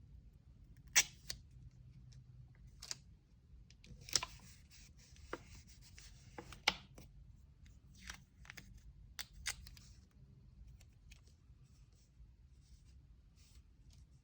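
Packing materials handled while an order is wrapped: paper rustles with sharp clicks and taps, the loudest about a second in and near seven seconds. It dies down to a few faint ticks after about ten seconds.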